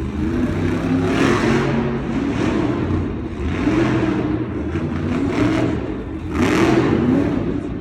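Monster truck engine revving hard in repeated surges, its pitch climbing and falling again and again during a freestyle run, loudest about a second in, near the middle and again near the end.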